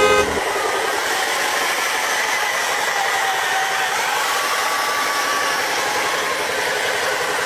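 Small electric motor and gearing of a radio-controlled truck running: a steady whirring hiss with a faint whine that wavers slightly in pitch.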